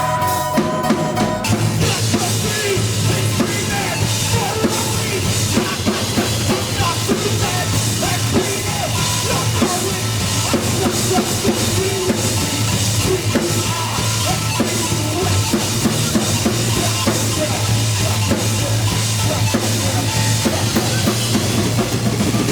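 A live rock band playing loud, the drum kit to the fore over a heavy bass line. The full band crashes in about a second and a half in, after a few held notes.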